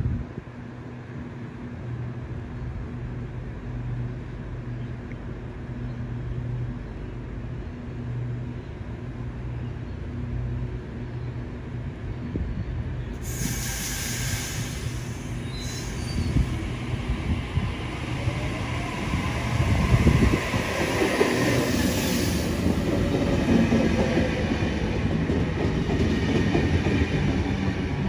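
Sydney double-deck electric train arriving at the platform: a steady low hum at first, then from about halfway the rolling wheel noise of the incoming train builds and grows louder, with some wheel squeal, as it draws alongside.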